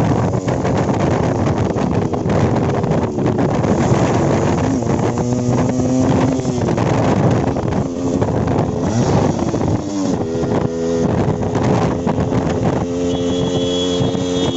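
Yamaha RX-135 single-cylinder two-stroke engine running loud on the move, its pitch climbing and dropping several times as it revs through the gears, with wind buffeting the microphone.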